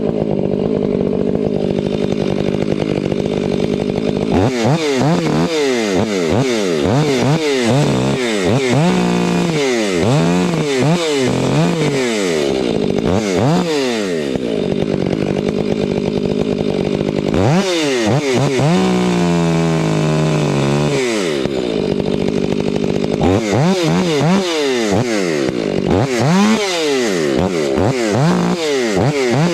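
Chainsaw idling for a few seconds, then revving up and down again and again, with a longer steady run at high speed midway through.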